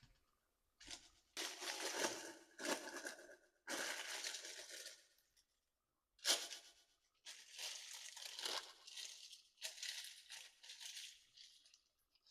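Several bursts of crinkling, tearing noise, each lasting about a second, with a sharper one about six seconds in.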